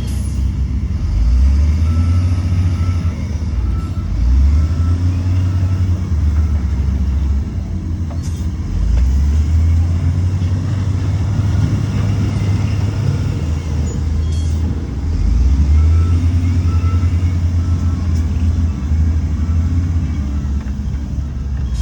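Heavy diesel earthmoving machinery running, its engine note rising and falling with load. A reversing alarm beeps in two short runs, about two seconds in and again about sixteen seconds in. A few sharp clanks are heard.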